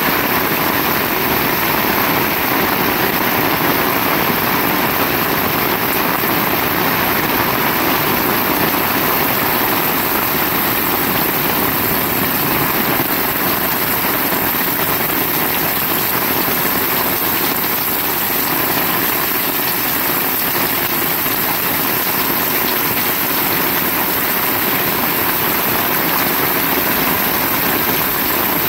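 Heavy rain falling, a steady, dense hiss with no distinct drops or breaks.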